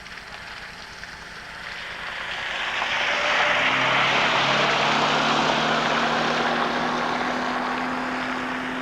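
Aircraft passing: a rushing engine noise that builds over about three seconds and then slowly fades, with a steady low hum under it.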